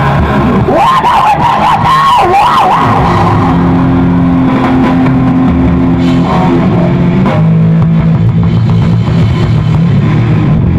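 Live rock band music, loud and continuous: guitar with wavering, bending notes in the first few seconds, then long held notes over the bass.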